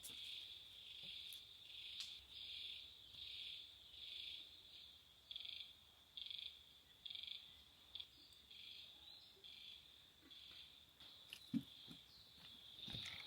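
Faint animal calling: a steady high trill that swells into louder pulses about once a second, with a few soft knocks near the end.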